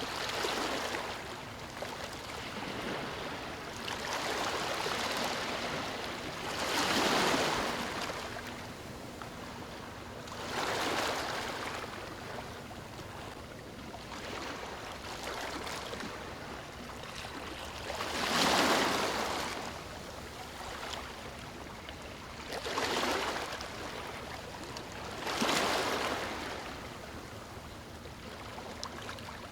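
Ocean waves breaking on a beach: a steady wash of surf with a swell of a breaking wave every few seconds, the largest about seven and eighteen seconds in.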